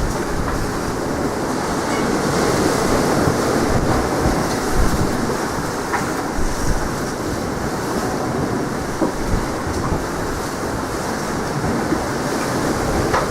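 Strong wind buffeting the microphone with a heavy low rumble, over the steady rush of sea surf.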